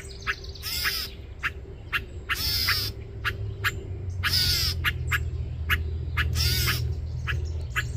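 An American robin scolding in alarm: harsh squawking calls about every two seconds, with short sharp chips between them, over a low rumble. It is the alarm of a parent defending its fledglings from a person.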